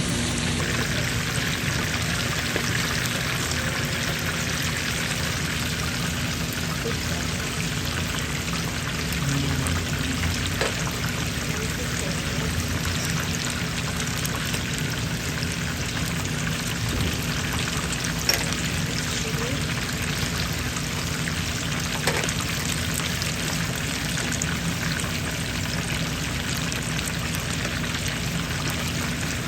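Fish frying in hot oil: a steady sizzle with a few small pops.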